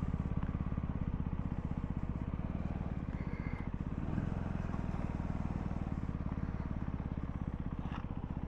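CFMoto 300SR's single-cylinder engine running steadily at low revs, with an even, rapid pulse.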